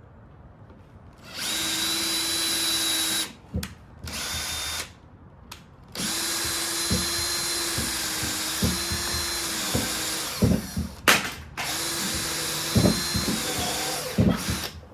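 Ryobi cordless drill running in several bursts of a few seconds each, with a few knocks in between, as it drives a 100 mm screw into hardwood. The drill isn't strong enough to sink the screw.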